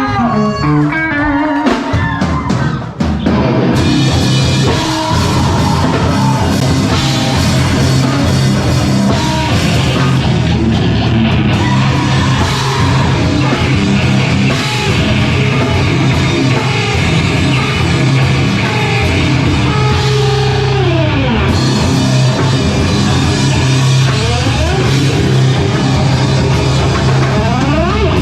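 Live heavy rock band playing loud, with distorted guitar, bass and drum kit. After a sparser opening the full band comes in with cymbals about four seconds in.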